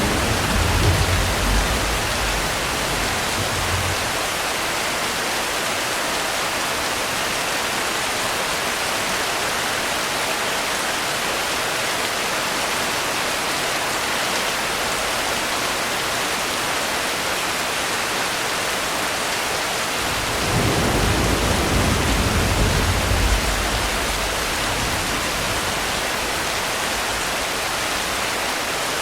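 Steady heavy rain, with low rolling thunder at the start that fades within a few seconds and a second roll of thunder rumbling for a few seconds past the middle.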